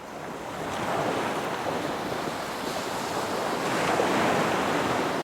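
Ocean surf: a steady rush of waves washing in, swelling about a second in and again around four seconds.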